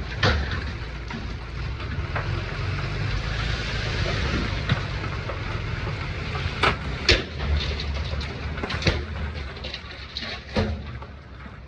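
Heavy diesel earthmoving machinery working stone: a steady low engine rumble under a gritty scraping of rock, with sharp clanks of stone striking metal every second or two.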